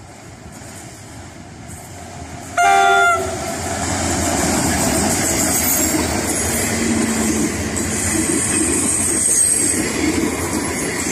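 A short, loud blast of an EMD diesel locomotive's horn about two and a half seconds in, the loudest sound. The passenger train then passes close by, its locomotives and coaches making a steady rumble of wheels on rails.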